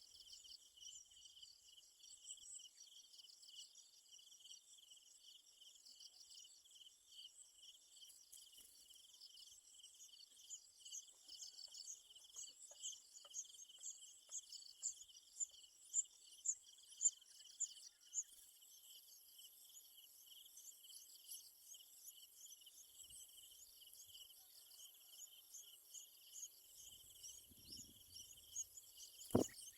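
Faint, steady chorus of trilling insects, with a run of louder chirps at about one a second through the middle. A single sharp click comes near the end.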